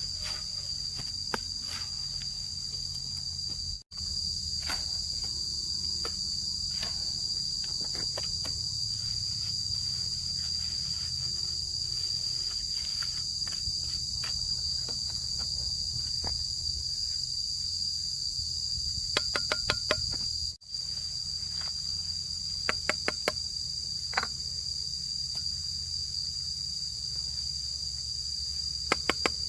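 A steady, high-pitched chorus of insects such as crickets, broken by runs of sharp clicks or taps near the middle and near the end.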